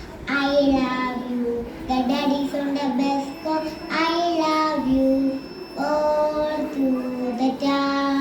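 A kindergarten-age girl singing solo, holding each note, with short breaks between phrases.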